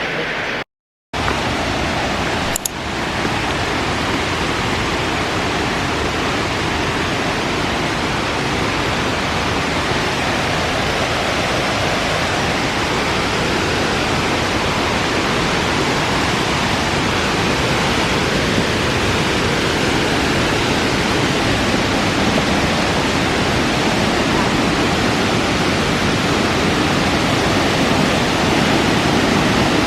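A waterfall rushing steadily: a loud, even hiss of falling water.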